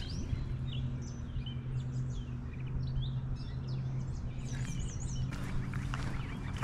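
Songbirds chirping repeatedly over a steady low hum. About five seconds in, a scratchy rustling starts up.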